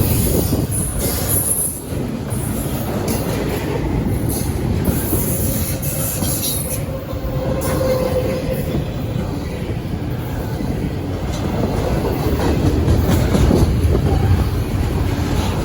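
Freight cars of a CSX train rolling past in a steady rumble of wheels on rail, with a brief wheel squeal about halfway through.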